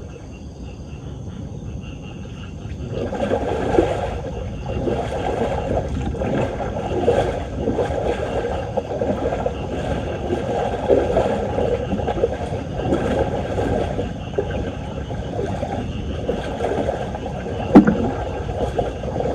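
Floodwater gurgling and churning, loud from about three seconds in, with a single sharp knock near the end.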